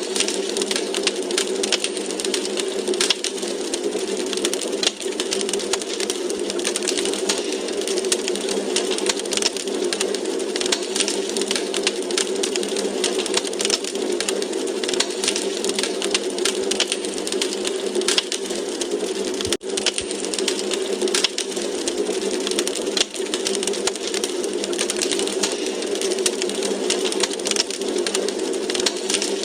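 Wood fire crackling in a fireplace: dense, steady crackles and pops over a constant rushing hiss, with a momentary gap about twenty seconds in.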